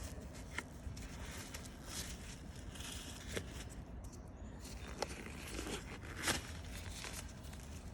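Scattered rustling and light clicks of things being handled, with a few sharper knocks, the loudest a little after six seconds in, over a steady low rumble.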